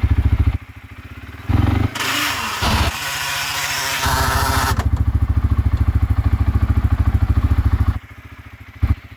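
CFMOTO CForce 400S ATV's single-cylinder engine pulling in low range through wet snow, throttle opened and eased several times. About two seconds in, a loud hissing rush lies over it for a few seconds. The engine then runs steadily under load and drops back to idle near the end.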